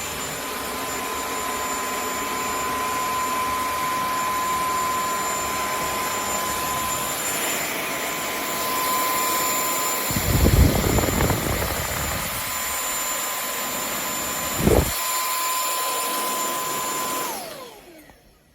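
KCLASO cordless stick vacuum running steadily with a thin high whine, with a few low bumps partway through. About seventeen seconds in it is switched off and the motor's whine falls as it spins down.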